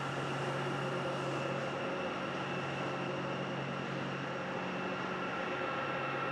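Aircraft engines running steadily, a constant rush with a few steady humming and whining tones.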